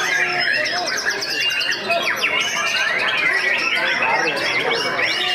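Many songbirds singing at once: a dense, continuous chorus of quick chirps, sweeping whistles and trills.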